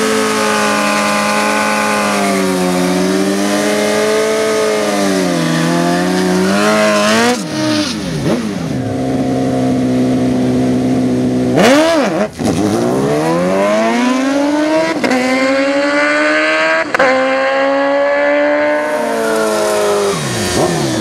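High-revving racing engines: held at high revs with a wavering pitch for several seconds, then accelerating hard with rising pitch sweeps, broken by gear shifts about halfway through and again near the end.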